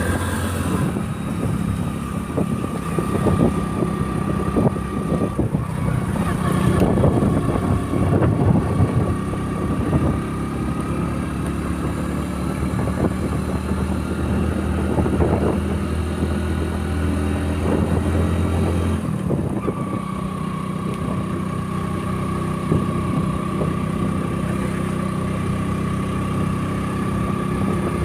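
Motorcycle engine running steadily on the move, with wind buffeting the microphone; the engine note shifts about 19 seconds in.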